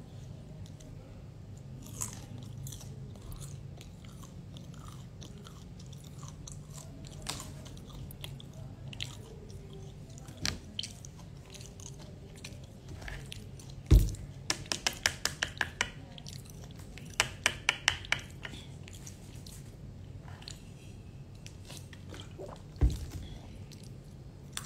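Close-up chewing of crispy battered fried cabbage: scattered small mouth clicks, then two quick runs of crisp crunches about halfway through. A sharp knock comes just before the first run and another near the end, over a low steady hum.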